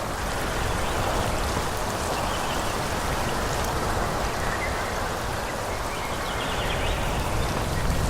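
Wind blowing through forest trees: a steady rushing of leaves and branches with a low rumble underneath, and faint high chirps here and there.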